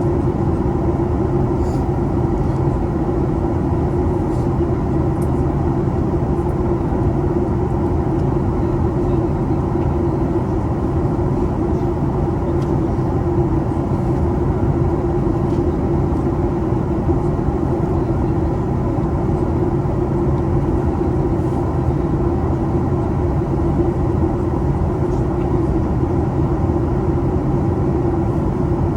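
Cabin noise of a Boeing 737 MAX 8 in flight: a steady low rumble of its CFM LEAP-1B engines and the airflow, with a constant hum.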